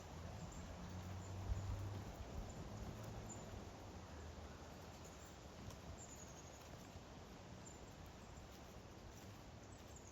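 Faint outdoor background: a low steady hum for the first few seconds that then fades, and a few faint, short, high-pitched chirps now and then.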